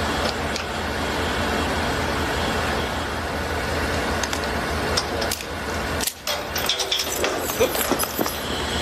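Steady low rumble of a running motor vehicle. The level drops briefly about six seconds in, and a run of clicks and knocks follows near the end.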